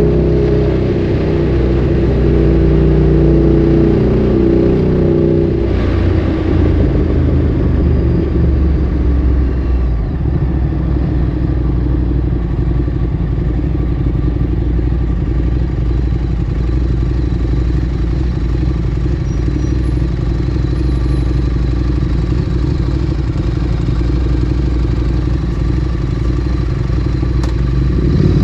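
Ducati Streetfighter 848's 90-degree L-twin through a Termignoni exhaust, its note falling as the bike slows over the first six seconds or so. It then idles with a steady low rumble and picks up again at the very end.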